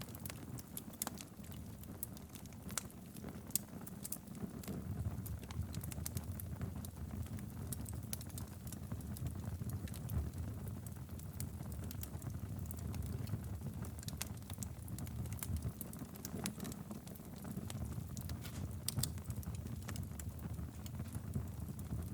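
Wood fire burning steadily in a fireplace: a low rumble of flame with frequent irregular crackles and pops.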